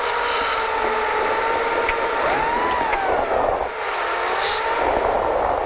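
Rally car engine heard from inside the cabin, held at steady raised revs while waiting at the stage start line, with one brief rise and fall in revs about halfway.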